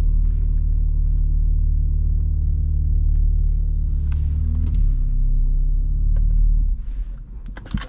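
BMW G80 M3's twin-turbo straight-six with an aftermarket single midpipe, running with a steady low exhaust drone at low revs. The drone drops away sharply near the end, followed by a few light clicks.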